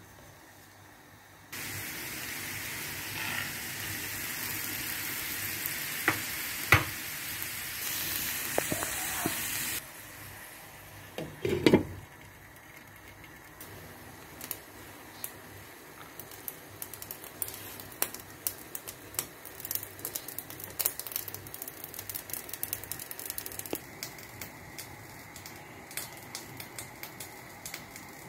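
Spinach and moong dal stir-frying in a nonstick pan: a loud, steady sizzle starts suddenly and cuts off after about eight seconds, with a few knocks of the spatula against the pan. After that comes softer crackling and stirring, with many small irregular clicks.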